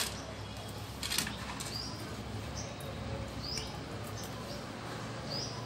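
Short high chirps of a small bird, repeating every second or so over a steady low background. A sharp click comes right at the start and a softer knock about a second in, as a glass dessert bowl is set down on a metal tray.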